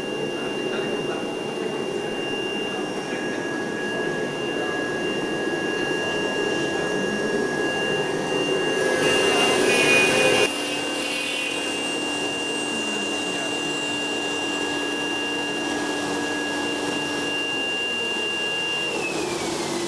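A workshop fabrication machine running, its motors giving a steady noisy hum with two high steady whines. About halfway through the sound drops a little and a lower steady tone joins for several seconds; near the end the high whine slides down in pitch.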